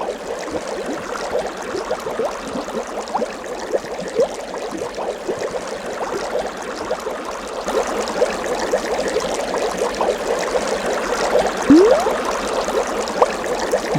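Running water trickling and gurgling, steady throughout, with many small bubbling blips.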